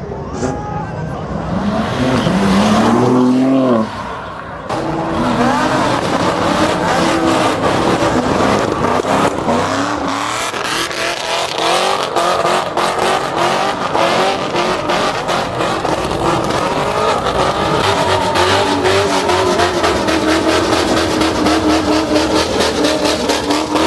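A car's engine revving hard while its tires squeal and spin on the pavement. The engine note rises and falls sharply about three seconds in, dips briefly, then engine and tire noise run on steadily to the end.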